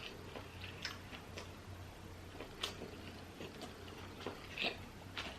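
Faint eating sounds: quiet chewing with scattered soft clicks and smacks, over a steady faint low hum.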